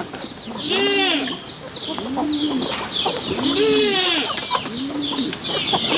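Chickens calling with short arched clucks, about one a second, among many short, high, falling chirps.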